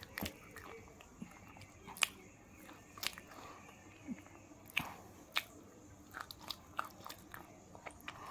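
Close-miked chewing of KitKat chocolate wafer: wet mouth sounds broken by scattered sharp clicks and small crunches, about one every half second to a second.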